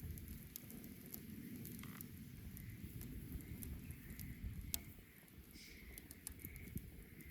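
Wood bonfire crackling: scattered sharp pops over a low steady rumble, with one louder pop a little under five seconds in. From about four seconds in, a faint high chirp repeats about every two-thirds of a second.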